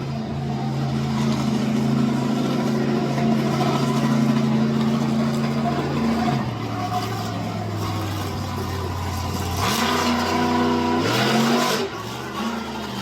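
Monster truck engine running at steady high revs, easing off to a lower pitch about six seconds in. Near ten seconds it revs up sharply with a loud surge, then drops back about two seconds later.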